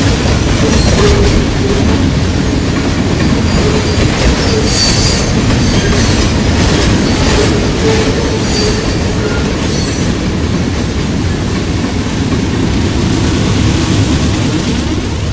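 Railroad cars rolling past close by: a steady rumble of wheels on rail, with clicks over rail joints at an uneven pace and short high-pitched wheel-flange squeals, the strongest about five seconds in. The train eases off slightly near the end.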